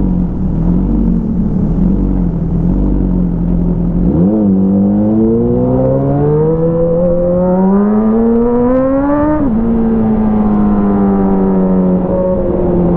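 Motorcycle engine through an aftermarket Avionic exhaust, first running steadily. After a quick blip of the throttle about four seconds in, the revs climb for about five seconds, then drop sharply and fall away slowly as the bike eases off.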